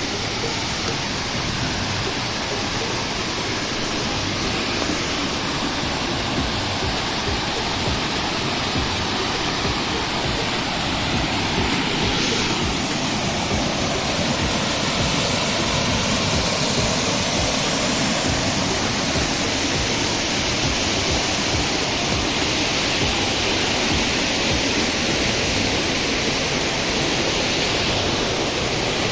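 Waterfall: steady rushing of falling water, loud and unbroken.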